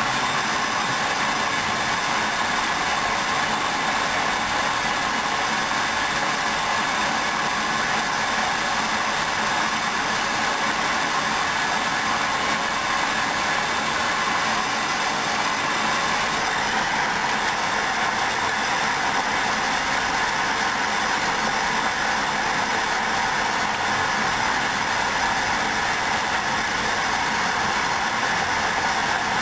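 Hoover washing machine at the start of its second rinse, making a steady, even rushing noise.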